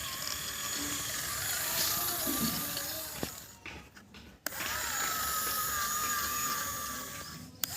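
Small electric gear motors of a home-made RC 4×4 toy tractor whining as it pulls a trolley; the motors wind down and stop about three and a half seconds in, start again with a click a second later, and stop again with a click near the end.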